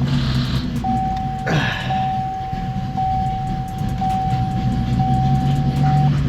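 A car engine idling with a steady low rumble, under a steady high electronic warning tone from a car that breaks off briefly now and then. A short rush of noise sweeps downward about a second and a half in.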